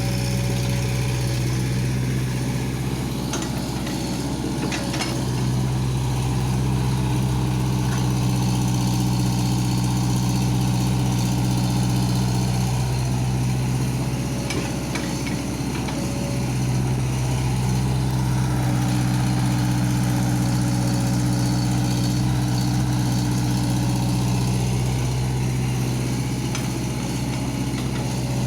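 Excavator engine running steadily with a low, even drone, its note wavering and dipping twice as the load changes, with a few faint clicks.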